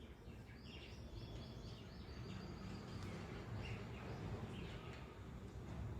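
Faint bird chirps, short high calls clustered in the first half, over a steady low background rumble.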